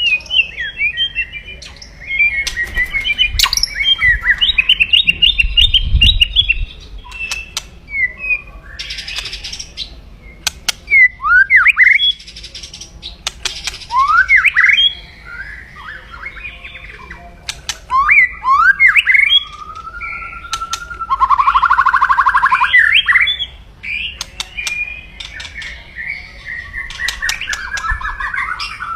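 White-rumped shama (murai batu) singing an aggressive, varied song of rapid chattering note runs and sharp whistled sweeps, with a buzzy rattle about two-thirds of the way through. These are the fierce 'kretekan' calls that keepers play to rouse other shamas.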